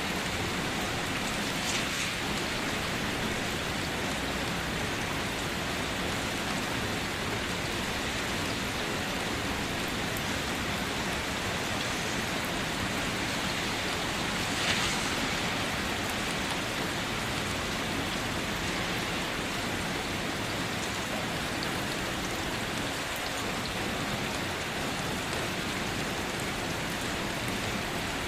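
Steady rain falling, an even hiss with the patter of drops on surfaces and a slightly louder drop splashing about halfway through.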